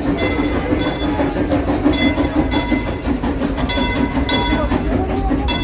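Steam train sounds: a steady low hum with short, repeated high ringing tones scattered through it.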